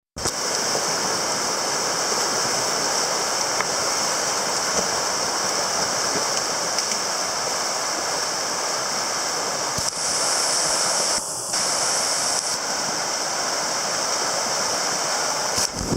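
A river swollen by heavy rain, rushing steadily in full flood. Its high water is carrying broken-up ice.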